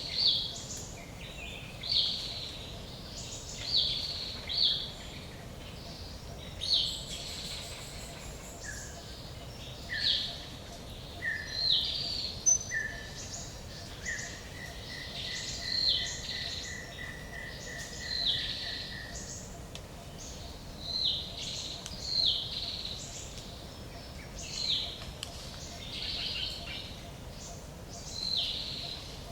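Forest birds singing: one bird repeats short falling calls every second or two, while another gives a run of lower notes in the middle that speeds up into a fast trill. A steady background hiss of the woods lies under them.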